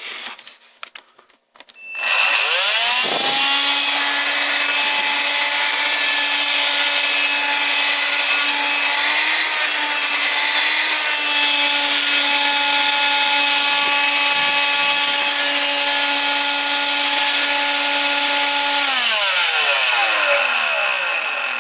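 Electrolux ZB3013 18 V cordless stick vacuum running on its rebuilt lithium battery pack: after a few handling clicks its motor is switched on and whines up to speed, runs steadily for about fifteen seconds, then is switched off and winds down, falling in pitch near the end.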